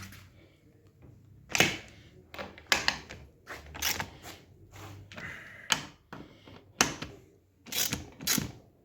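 Irregular sharp clicks and knocks, about nine over several seconds, from hand-tool work fastening parts of a car seat.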